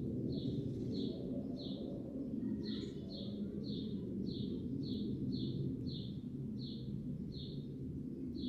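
A bird calling the same short, high, slightly falling note over and over, about two to three times a second, with a brief different call about three seconds in. Under it runs a steady low rumble.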